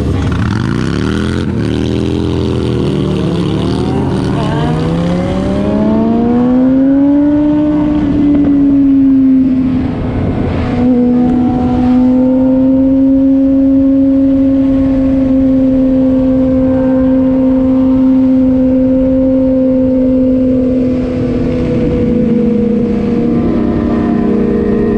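A vehicle engine on the move, its note dipping and then climbing as the revs rise over the first several seconds, then holding a steady drone as it cruises.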